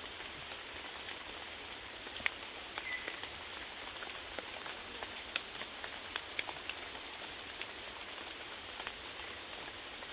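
Steady rainfall: a constant hiss with individual drops ticking sharply and irregularly on a surface.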